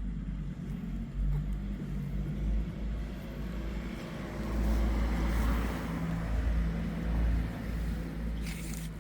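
Low rumble of a motor vehicle engine running close by, growing louder around the middle.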